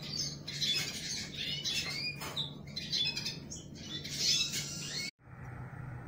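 Aviary birds giving a rapid run of sharp chirps and squawks, agitated by a horseshoe whip snake in the aviary. The calls cut off abruptly about five seconds in, leaving a faint steady hum.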